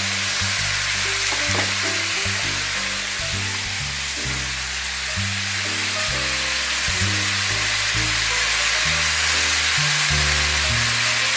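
Chicken, shrimp and vegetables sizzling steadily in a hot stir-fry pan, with background music and a bass line underneath.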